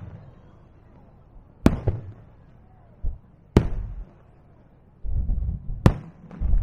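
Aerial fireworks shells bursting over the sea: three sharp bangs about two seconds apart, each trailing off with a short echo. A low rumble of smaller bursts builds near the end.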